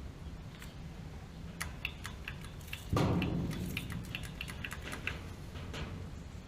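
A run of light metallic clicks and rattles, like small parts or tools being handled, with one heavier knock about three seconds in.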